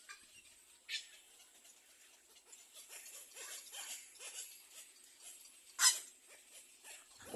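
Little egrets at the nest calling: a run of many short calls, with one sharp, louder call about six seconds in.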